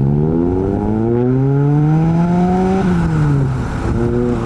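A modified car's engine accelerating away, its pitch climbing steadily for nearly three seconds, then dropping sharply as the driver shifts or lifts off and settling into a steady drone.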